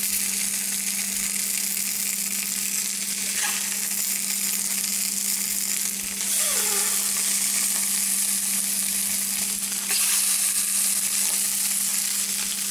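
Oiled octopus tentacles searing in a very hot cast iron pan: a steady sizzle that gets louder about six seconds in and again about ten seconds in as more pieces go into the pan.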